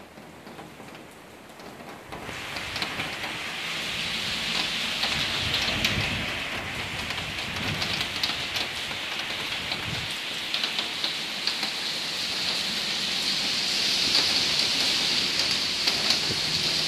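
Rain pouring onto a wet paved road and the trees beside it. It is faint at first and swells to a steady downpour about two seconds in.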